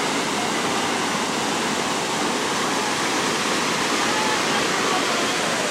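Kertowono waterfall: water falling and rushing in a loud, steady roar that does not let up.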